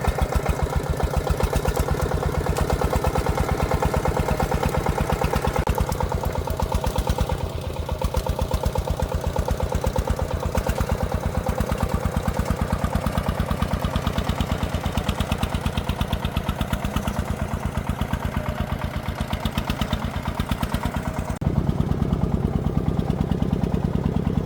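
Single-cylinder diesel engine of a công nông agricultural vehicle running steadily with an even, rapid firing beat. About three seconds before the end the sound turns fuller and deeper.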